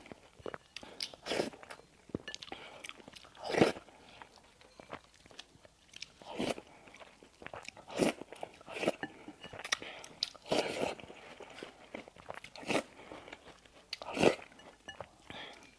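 Close-miked eating of bakery bread and pastries: irregular crunchy bites and chewing, a few bites standing out louder, one a few seconds in and one near the end.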